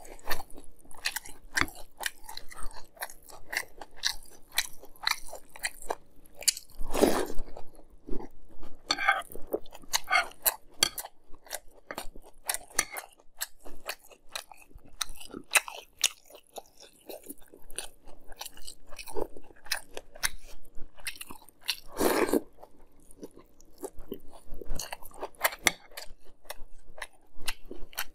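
Close-up chewing and crunching of Fruity Pebbles cereal in milk, a dense run of small crunches, with two louder, longer mouth noises about 7 and 22 seconds in.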